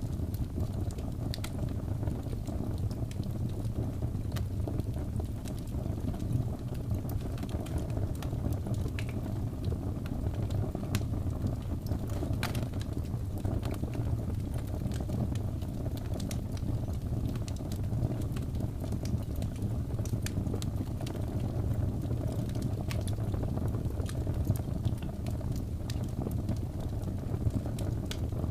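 Wood fire burning in a fireplace: a steady low rumble of flames with sharp crackles and pops at irregular moments.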